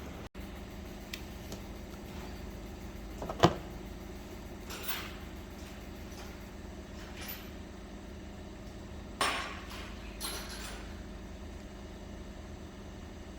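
Metal tools and parts being handled: one sharp knock about three and a half seconds in, then a few lighter clinks, over a steady low hum.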